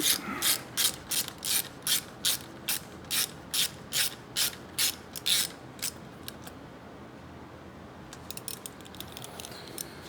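Hand ratchet with a 5 mm Allen hex bit clicking on its back-swings as a bolt is run in, in short bursts about three times a second. The ratcheting stops after about six seconds, with a few faint clicks near the end.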